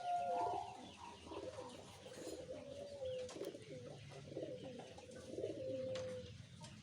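Zebra dove (perkutut) cooing slowly: a run of low, soft notes that bend up and down, ending in a longer drawn-out note about six seconds in.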